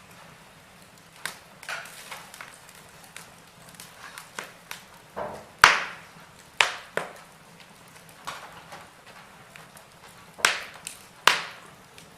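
Wood fire in a fireplace crackling: irregular sharp pops and snaps over a soft hiss, with the loudest pop about halfway through and two strong ones near the end.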